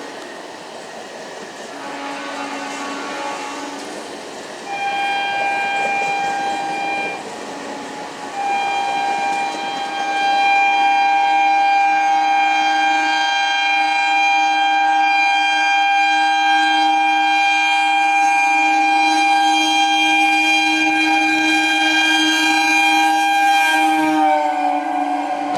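Train horn sounded as a train approaches on the line: two shorter blasts, then one long held blast lasting about fifteen seconds, its pitch dropping near the end as the train passes.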